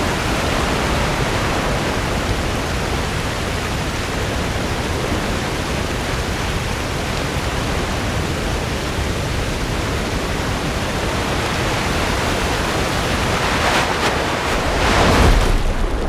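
Ocean surf on a beach: a steady wash of breaking waves, with one wave swelling louder near the end.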